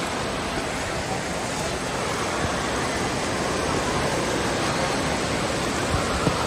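Steady rushing and splashing of water from a water park's water features, an even noisy wash with no breaks.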